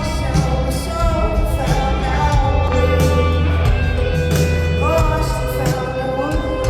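Live rock band playing a song, with a woman singing held, gliding notes over a heavy, steady bass.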